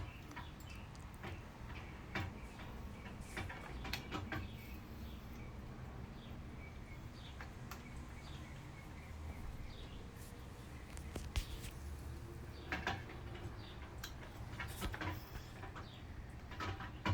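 Faint handling sounds of hair being curled with a barrel curling iron: scattered soft clicks and light rustles over a low steady room hum.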